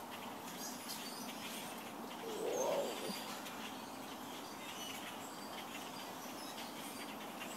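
Large flock of blackbirds calling: many short, high squeaky chirps overlapping throughout, with one louder, lower call that rises and falls about two and a half seconds in.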